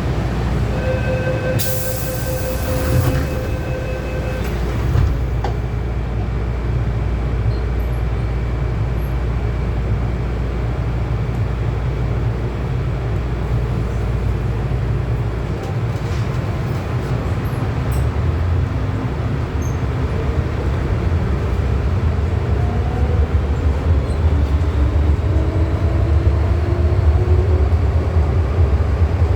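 Hong Kong MTR M-Train in a station. A warning tone sounds for about three seconds near the start, with a brief hiss. Then, about halfway through, the train pulls away: wheel rumble grows and the traction motors whine, rising steadily in pitch as it accelerates.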